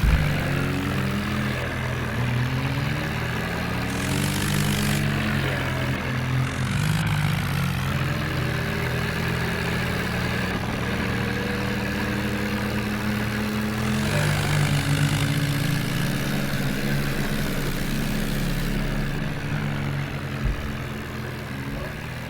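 Diesel tractor engine running and being revved up and down several times, its pitch rising and falling.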